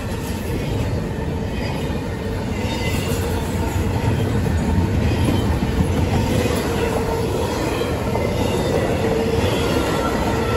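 CSX intermodal freight cars loaded with trailers and containers rolling past close by: a steady rumble of steel wheels on rail, growing a little louder about four seconds in. A thin wheel squeal runs underneath and swells near the end.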